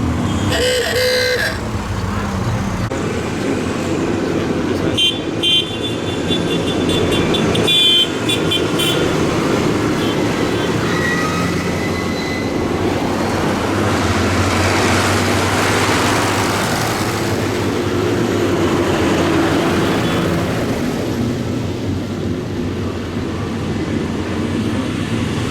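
A procession of tractors passing, their engines running steadily, with horns tooting near the start and again in a run of short blasts about five to nine seconds in. The engine noise swells in the middle as a vehicle goes by close.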